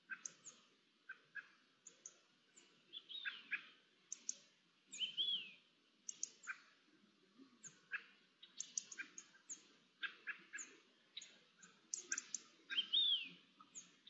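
Wild birds calling and singing: many short sharp chirps scattered throughout, with a few brief down-slurred whistled notes, about four, six and thirteen seconds in.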